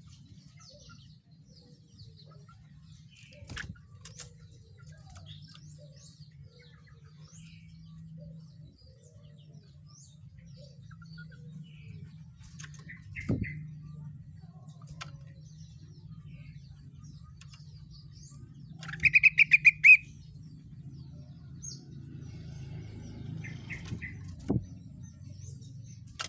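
Rengganis songbird chirping, with one loud rapid trill of about ten notes about three-quarters of the way in and a few shorter trills. A few sharp knocks, over a low steady hum and a faint high-pitched whine.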